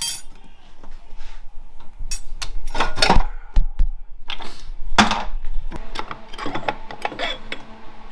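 Metal transmission internals clanking and clinking as parts are handled and set down during an automatic transmission teardown: a string of irregular knocks, loudest about three seconds in.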